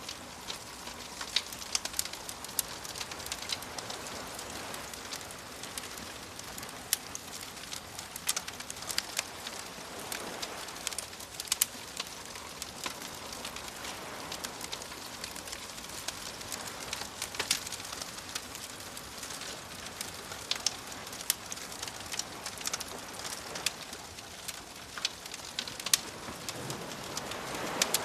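Campfire crackling with frequent sharp pops over the soft wash of waves, which swell about ten seconds in and again near the end.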